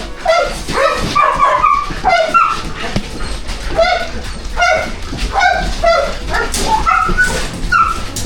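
Several dogs barking and yipping in quick succession, about two short barks a second, at different pitches.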